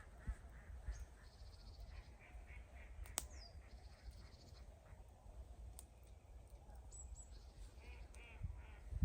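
Waterfowl on a lake calling in runs of short repeated notes, over a low steady rumble. A single sharp click comes a little after three seconds in.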